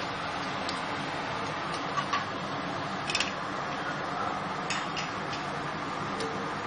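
Sliced onions sizzling as they fry in mustard oil, a steady hiss with a few light clicks scattered through.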